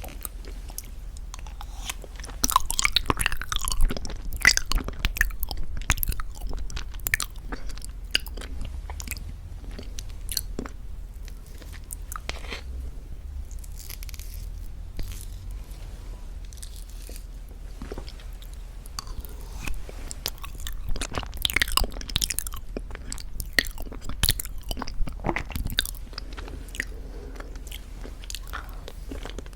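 Eating very thick Greek yogurt with honey: short wet mouth clicks and smacks. They come thickest in two spells, a couple of seconds in and again about twenty seconds in.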